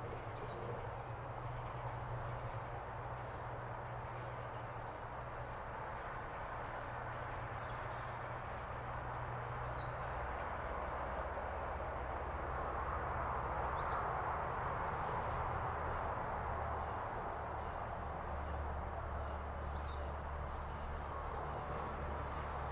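Steady outdoor background of a distant engine's low rumble and a broad hiss, with a small bird's short, faint chirps every two to three seconds and a thin, steady high insect whine.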